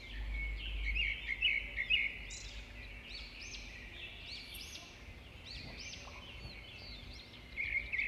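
Small birds chirping and twittering in quick succession, short high chirps that keep going without a break.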